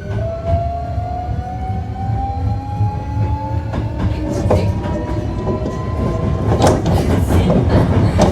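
Hankyu 1300 series electric train's Toyo IGBT inverter and traction motors whining in several tones that climb slowly in pitch as the train accelerates, over a steady low rumble of wheels on rail. The main whine stops about seven seconds in, and from the middle on the running noise grows louder, with wheel clicks over rail joints.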